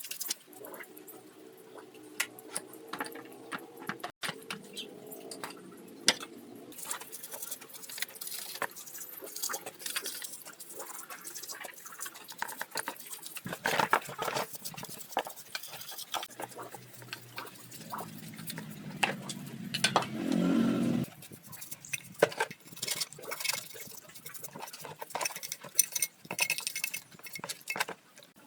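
Hand tools clinking and tapping on metal engine parts in many quick, irregular strokes, with a brief low hum partway through.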